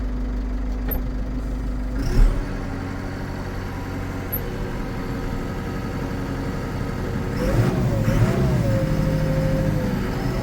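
McCormick CX105 tractor engine running steadily while the front loader is worked by joystick, with a sharp clunk about two seconds in. From about seven and a half seconds the engine note picks up and a wavering whine settles into a steady tone as the loader hydraulics take load.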